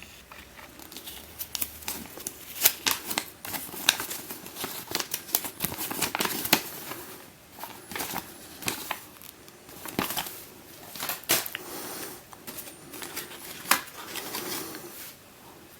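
Hands unpacking a new plastic 3x3 speedcube from its box and paper: irregular sharp plastic clicks and taps mixed with rustling of packaging.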